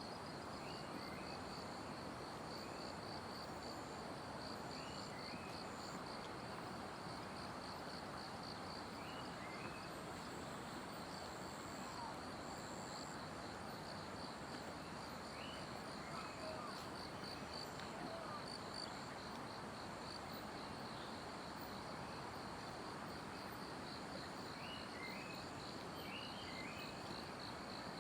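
Forest insects trilling steadily in a high, finely pulsing tone, with a fainter higher buzz coming and going. Short rising bird chirps come in small groups every few seconds over a steady hiss.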